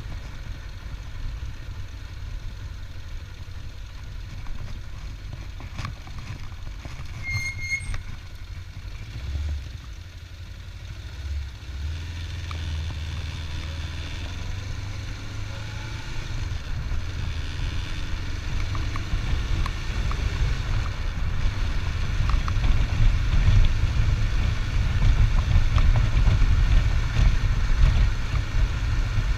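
Vehicle on the move, a steady low engine-and-road rumble that grows louder through the second half. About a third of the way in there is a short, high double beep.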